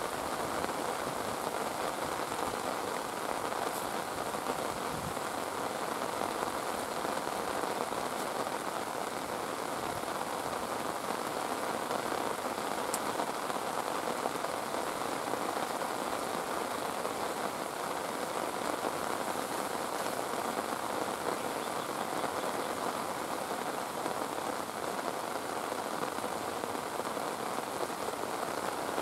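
Steady heavy rain falling, an even unbroken hiss with a few faint drop ticks.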